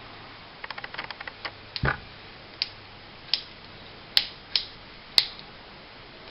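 Small sharp clicks and taps from handling the lower frame of a small 9mm 1911-style pistol while oiling its moving parts: a quick run of light clicks about a second in, then about eight separate clicks, one with a duller knock, the loudest near the end.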